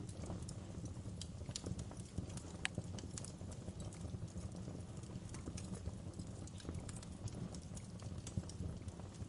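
Wood fire crackling: irregular sharp pops and snaps, one louder pop near the third second, over a steady low rumble of the burning fire.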